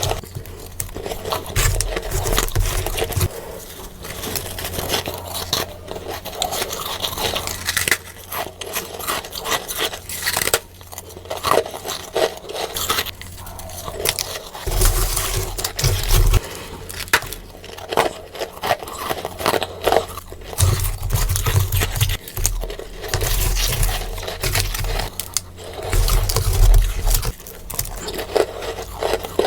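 Close-miked biting and chewing of freezer frost, sped up: a dense run of soft crunches and crackles with stretches of low thuds.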